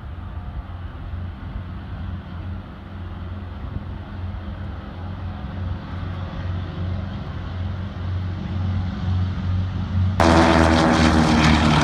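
Douglas DC-3's twin radial piston engines droning with a low, steady hum that slowly grows louder. About ten seconds in, the sound turns abruptly much louder and fuller.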